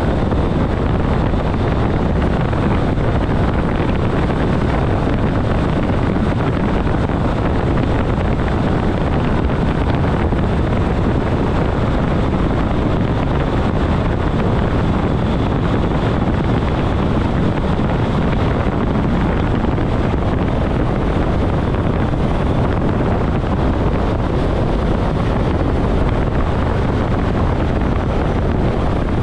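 ÖBB class 4024 Talent electric multiple unit running at about 130 km/h: a steady rumble of wheels on rail with a constant rush of air over it.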